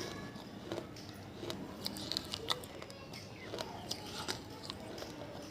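Pieces of a water-soaked fired clay diya being crunched, with many sharp, irregular crackles.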